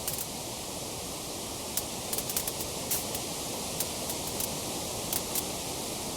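Wood fire crackling: irregular sharp snaps and pops, sometimes in quick clusters, over a steady hiss of burning.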